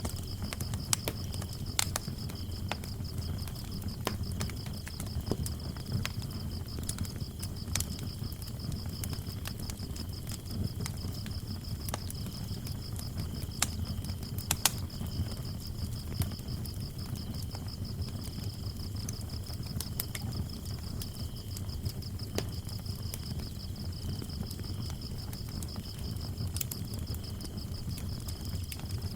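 Wood fire burning with a low rumble and scattered sharp crackles and pops, over a continuous high, pulsing chirping of crickets.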